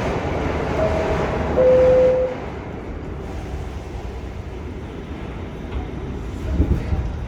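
R46 subway car's door chime, two descending tones, with the second one louder, sounding as the doors close. The car's low rumble runs underneath, with a clunk near the end.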